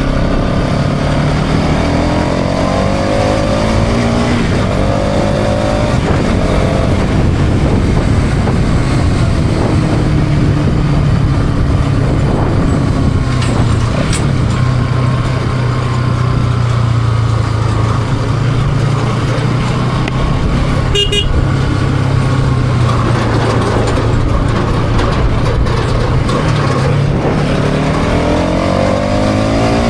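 Bajaj Pulsar NS200 motorcycle's single-cylinder engine running under way, with wind rush. The engine note rises as it accelerates in the first few seconds and again near the end. A short horn toot comes about two-thirds of the way through.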